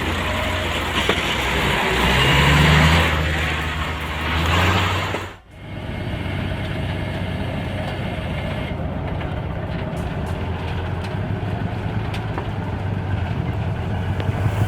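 Heavy vehicle engines running. The first sound is loud and pulls hard, with a sharp break about five seconds in. After the break an engine runs steadily at a lower, even level.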